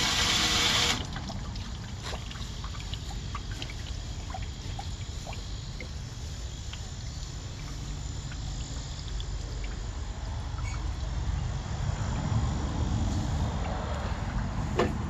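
A loud spray of water cuts off about a second in, leaving water trickling and dripping in scattered small drops. A low rumble builds near the end.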